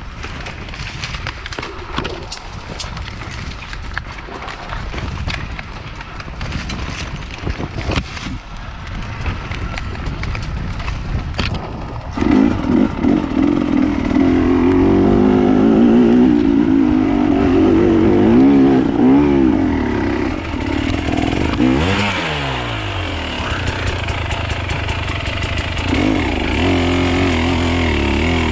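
Off-road enduro motorcycle: scattered clattering and knocks at first, then from about twelve seconds in a loud engine close by, its pitch rising and falling as the throttle is worked, with one falling sweep about ten seconds later before it settles into a steadier run.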